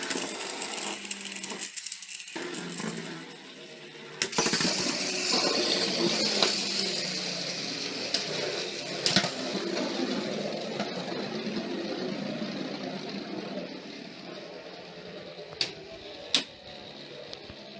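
Power Rippers plastic toy vehicles whirring and rattling around a plastic track, with a few sharp clacks.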